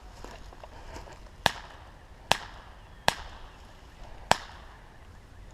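Airsoft gun fired four times in single shots, each a sharp crack, unevenly spaced over about three seconds.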